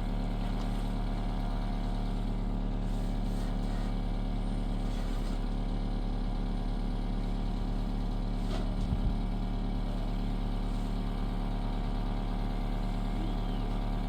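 A small engine or motor running steadily at an even speed, with a brief knock about nine seconds in.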